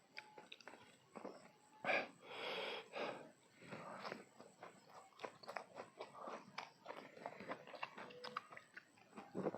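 A person biting and chewing food close to the microphone: crunchy, wet mouth sounds with many small clicks, and a louder stretch about two seconds in.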